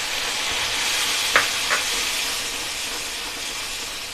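Tomato and green-chilli paste sizzling in hot oil in a steel kadhai as sambar masala powder is stirred in with a steel ladle, a steady hiss that slowly eases. About a second and a half in, the ladle clinks twice against the pan.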